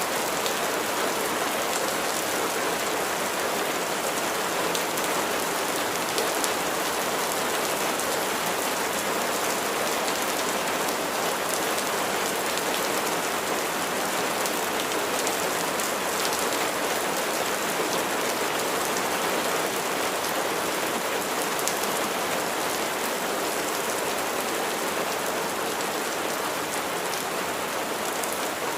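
Steady rain falling, an even continuous hiss with faint scattered drop ticks through it.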